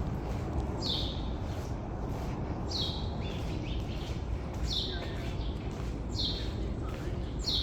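A songbird repeating a short, falling call about every one and a half to two seconds, over steady low background noise.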